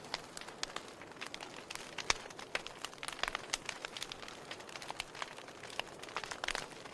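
Wood fire in a fireplace crackling: irregular sharp pops and snaps over a soft hiss, the loudest snap about two seconds in, and a quick run of pops near the end.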